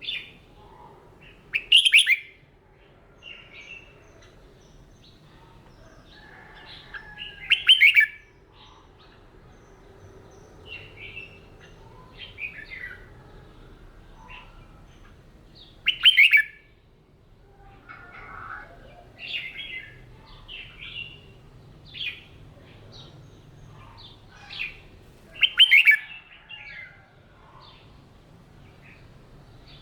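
Red-whiskered bulbul singing: four loud, short warbling phrases spaced several seconds apart, with softer chirps between them.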